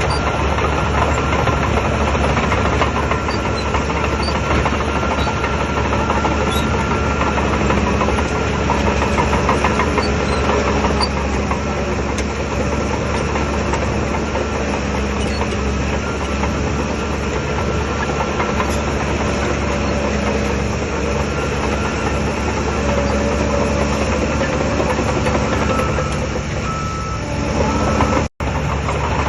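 Shantui DH17 bulldozer's diesel engine running steadily as the machine works. The sound drops out for an instant about a second before the end.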